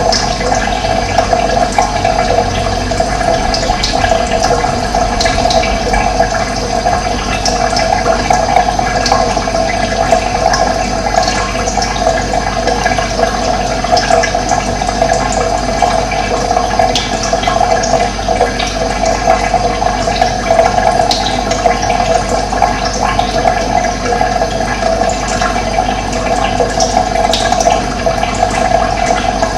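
Steady flow of running water, with short high bird chirps scattered through it.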